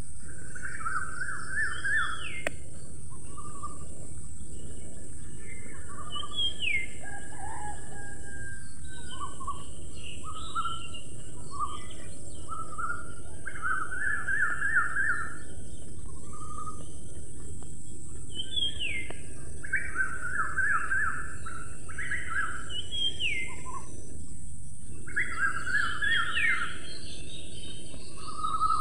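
Birds chirping and calling: short trilled phrases and upward-sweeping notes every second or two, over a steady background hiss.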